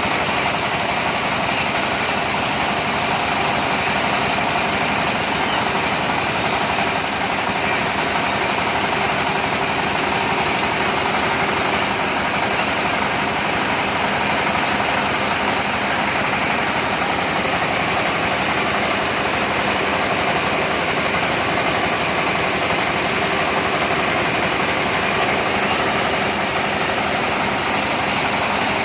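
Cassava starch-and-pulp separator machine running steadily, a constant mechanical drone with no change in speed.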